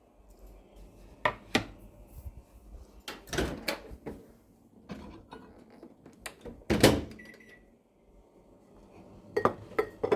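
Kitchen handling clatter: irregular knocks and clicks of things being picked up and set down, in four short clusters, the loudest about seven seconds in.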